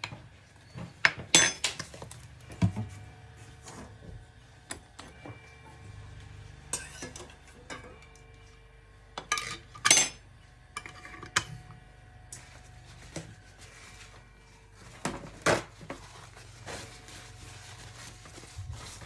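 Dishes, pans and cutlery clinking and clattering in kitchen work: irregular sharp knocks and rings, with a few louder strikes scattered through.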